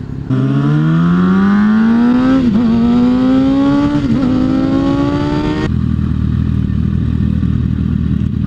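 Sport bike's inline-four engine accelerating hard, its pitch climbing steadily with two quick upshifts about two and a half and four seconds in. Just before six seconds it cuts abruptly to a lower, steady engine and road noise.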